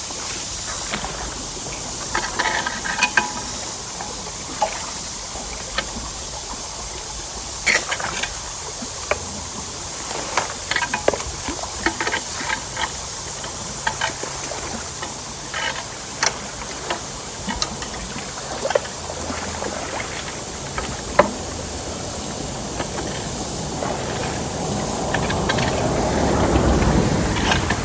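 Creek water running steadily, with many short knocks and cracks scattered through it. Near the end a louder rushing sound swells up.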